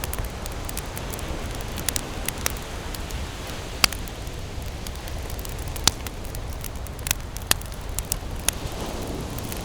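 Wood campfire crackling, with sharp pops at irregular moments, two louder ones a few seconds in, over a steady low rumble.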